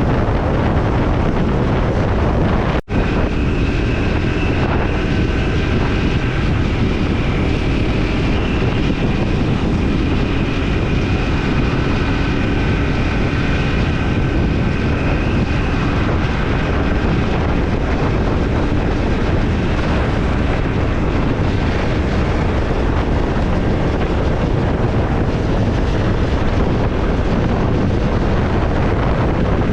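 Triumph Scrambler 400 X single-cylinder engine running at a steady cruising speed on the road, under heavy wind rush on the microphone. The sound cuts out for an instant about three seconds in.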